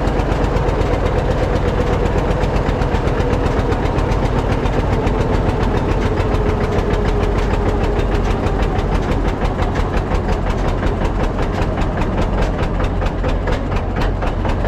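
Tractor engine running loud and steady with a fast, even beat.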